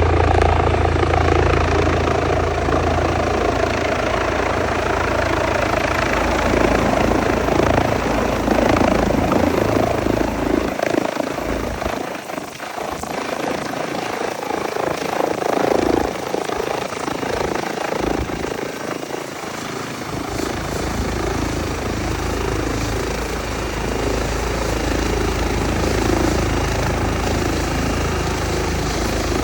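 Air ambulance helicopter coming in to land, its rotor and engine noise loud and continuous. The deep low hum of the rotor fades out for several seconds midway, then returns.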